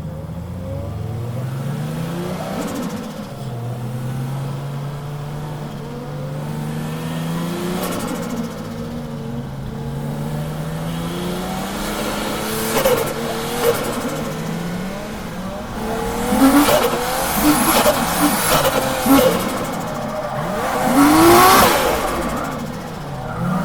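Drift car engine under load, its pitch slowly rising and falling through the first half. From about halfway it revs harder in short bursts with tyre squeal, loudest near the end. The engine is misfiring.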